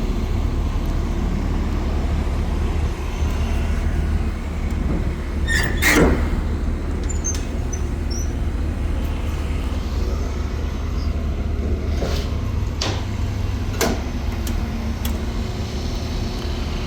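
The 2019 Isuzu NPR's 6.0-litre V8 idling with a steady low hum. There is one loud clack about six seconds in and a few sharper knocks later on, as the truck's box is opened.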